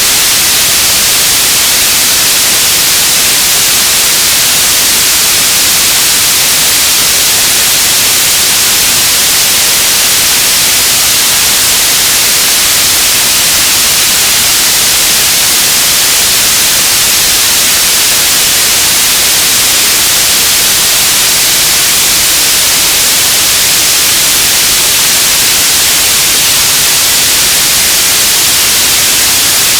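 Radio static: a loud, steady hiss, brighter in the highs, with no tones or breaks.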